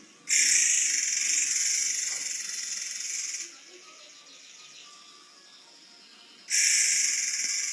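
Forktail (murai air) giving two long, shrill high-pitched calls, the first starting just after the start and lasting about three seconds, the second starting about six and a half seconds in.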